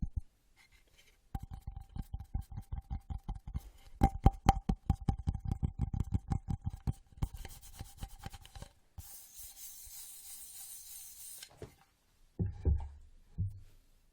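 Very fast fingertip tapping, many taps a second for several seconds. The tapping gives way to a steady rubbing hiss for a couple of seconds, and a few low thumps come near the end.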